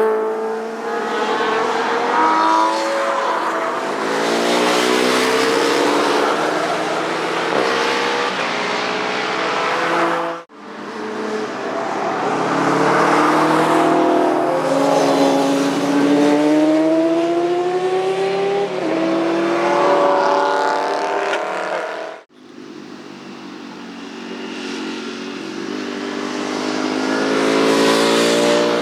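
Motorcycle engines running hard past the track at speed, pitch climbing under acceleration and dropping at gear changes, in three sections broken by abrupt cuts about ten seconds in and again near twenty-two seconds. In the last section a bike is heard approaching, growing steadily louder.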